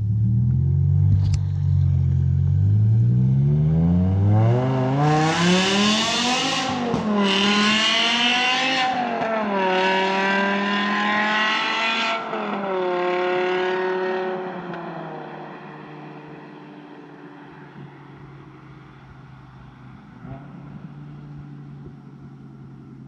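BMW E60 M5's V10 engine, through a loud custom exhaust, accelerating hard with the pitch climbing steeply. It drops twice at quick SMG upshifts, then eases off and settles into a quieter steady drone.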